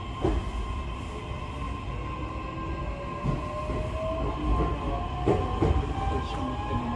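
Running sound heard inside a JR East E131-1000 series electric train. The traction motors give a whine that rises slowly in pitch as the train picks up speed, over a steady rumble and scattered knocks from the wheels on the rails.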